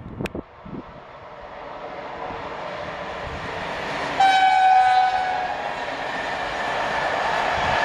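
Electric locomotive hauling a passenger train approaching and passing, its wheel-and-rail noise growing steadily louder. About four seconds in, the locomotive sounds one horn blast lasting about a second.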